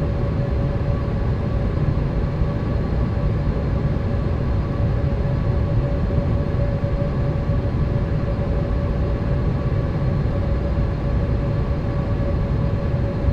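Boeing 787 cabin noise in flight: a steady rush of engine and air noise over a deep rumble, with a steady hum running through it.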